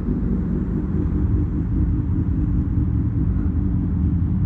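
Harley-Davidson V-twin engines idling: a steady, low rumble.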